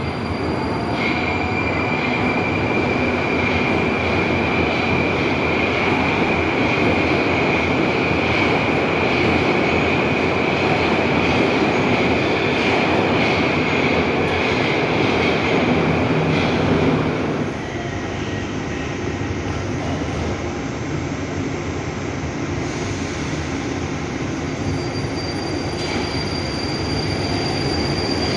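Metro train running through a station: a steady rumble with a steady high-pitched wheel squeal. The noise drops suddenly about two-thirds of the way through, and near the end a thin high tone and a rising whine begin.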